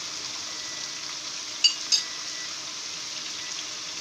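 Beef and onions sizzling steadily in a frying pan. About a second and a half in come two sharp clinks close together, a metal spoon set down on a ceramic saucer.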